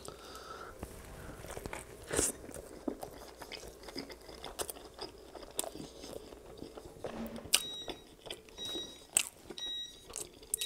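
Close-up biting and chewing of a burger. From about three-quarters of the way in, an ice maker in the background gives a series of short electronic beeps.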